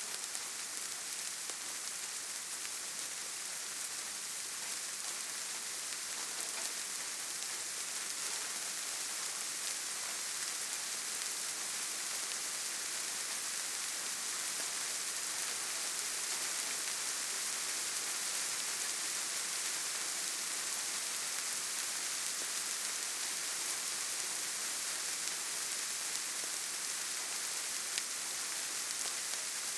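Steady rainfall pattering on surfaces, an even hiss heavy in the highs, with a single faint drip-like click near the end.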